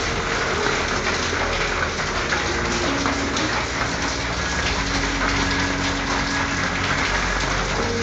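Steady rain falling on a corrugated tin roof, a dense even patter of drops.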